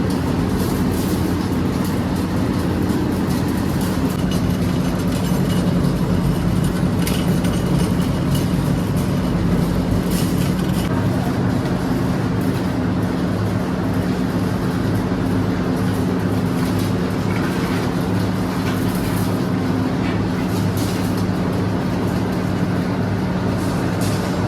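Steady running noise of industrial machinery: a continuous rumble with a low hum and a few faint light clicks.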